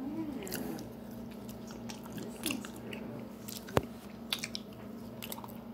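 Close-up chewing of soft oven fries dipped in ketchup: wet mouth clicks and smacks, with one sharper click partway through. A steady low hum runs underneath.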